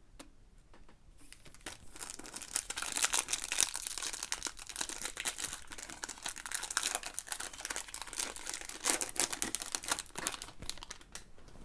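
Foil trading-card pack wrapper crinkling and tearing as it is ripped open, with dense rustling and fast small crackles for most of the stretch.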